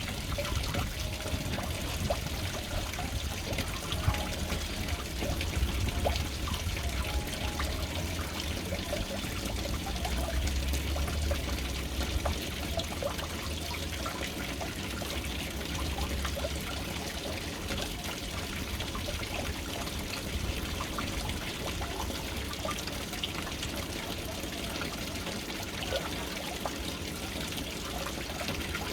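Water pouring and trickling steadily into a household water storage tank from its float-valve inlet, a continuous splashing with many small drop sounds. A low rumble sits under it for about the first half.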